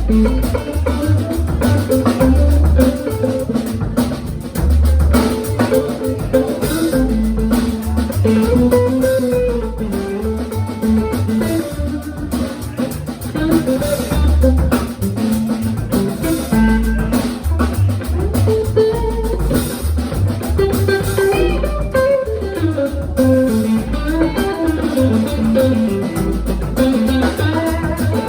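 Live rock-blues band playing an instrumental break with no vocals. Guitar lines move up and down over bass guitar and a drum kit's steady beat.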